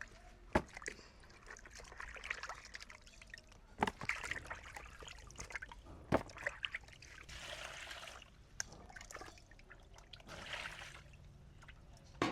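Water trickling and being poured, with a few sharp knocks about a second, four and six seconds in and two short stretches of pouring near the end.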